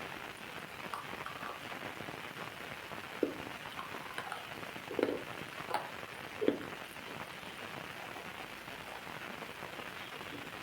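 Steady rain falling, with a few louder drips about three, five and six and a half seconds in.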